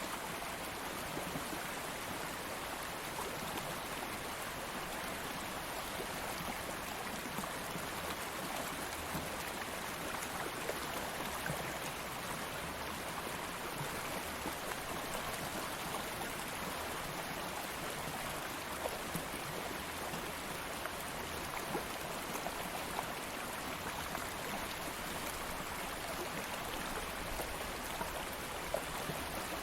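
Stream of water flowing steadily over stones, a constant rushing babble with faint small splashes through it.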